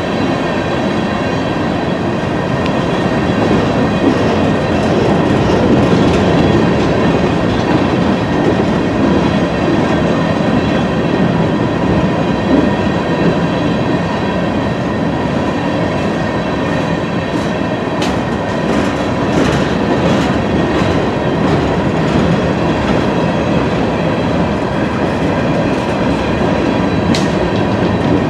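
Freight train's open-top coal hopper cars rolling past close by: a steady rumble and clatter of steel wheels on the rail. A couple of sharp metallic clicks come in the later part.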